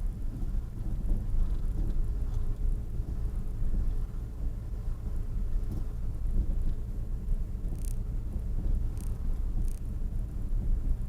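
Steady low rumble of a car, with a few faint high ticks near the end.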